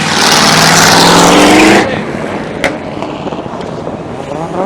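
Car engine revved hard, its pitch climbing, then cut off sharply as the throttle is released about two seconds in; the engine keeps running lower, with a single sharp click, and begins to rev up again near the end.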